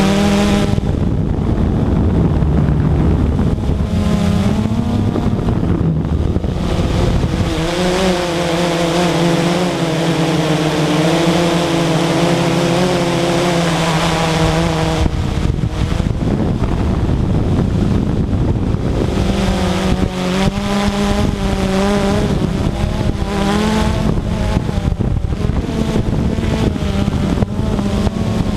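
Radio-controlled model aircraft's motor running in flight, its pitch rising and falling as the throttle and the plane's position change.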